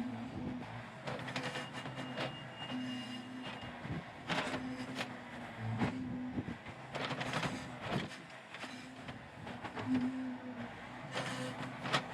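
Yanmar YB451 mini excavator at work, its diesel engine running and swelling under load. A thin hydraulic whine lasts a couple of seconds early on, and several scraping, clattering hits come as the bucket digs through mud.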